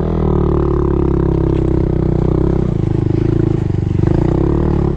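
Honda Monkey's single-cylinder four-stroke engine pulling at steady, raised revs as the bike rides on, dropping back to a slow idle right at the end.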